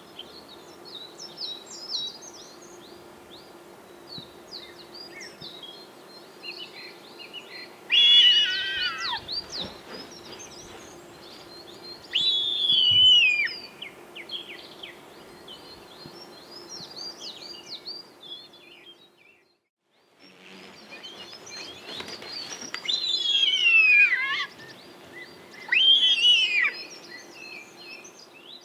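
Bird calls: many small, quick high chirps run throughout. Four times, about 8, 12, 23 and 26 seconds in, a loud call slides down in pitch. The sound drops out briefly about two-thirds of the way through.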